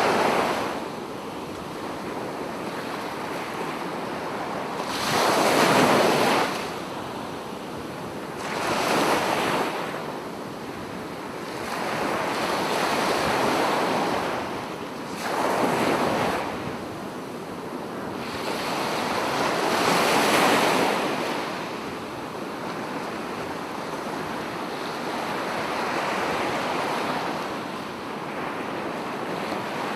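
Sea waves breaking on a beach and washing up the shore, a swell of surf every few seconds over a steady hiss.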